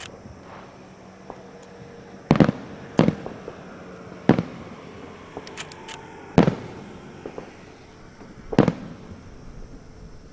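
Aerial firework shells bursting: about five sharp bangs at uneven gaps of one to two seconds, each with a short echo, and fainter crackling between them.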